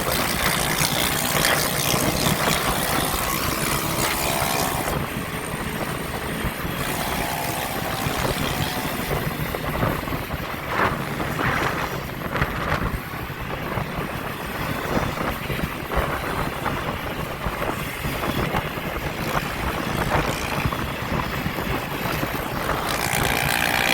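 Wind rushing over the microphone while riding along the road, with motorbike engines running nearby. Faint engine tones come and go in the noise, and a few short knocks fall about halfway through.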